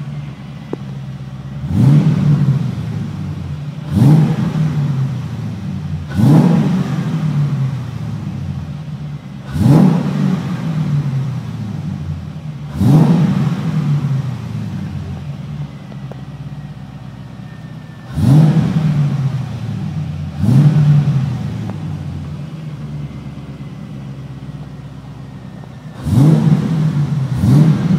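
LS1 V8 engine in a BMW E36, idling at standstill and blipped on the throttle about nine times, each rev a quick rise in pitch that falls back to idle. Heard from inside the cabin.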